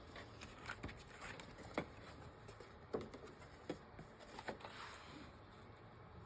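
Faint handling sounds of paper and fabric being moved and sorted on a work table: a few light, sharp taps spaced about a second apart among soft rustling.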